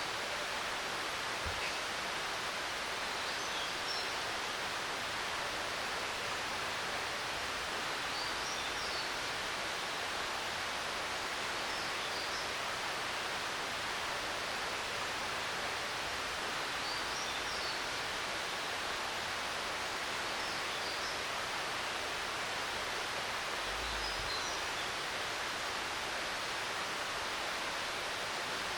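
Steady rush of a waterfall, an even wash of falling water, with faint bird chirps now and then.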